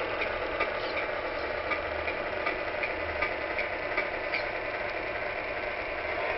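Tamiya 1/14-scale Scania R620 radio-controlled truck running: a steady mechanical hum with light, regular ticks about three times a second.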